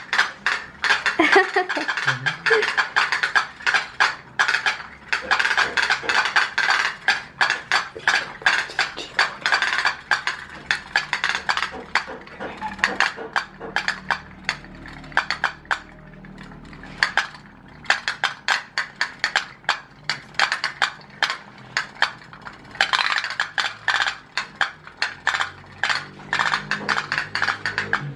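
Several homemade tin pop-pop boat engines running together: a fast, irregular metallic clicking and popping from their vibrating tin boilers.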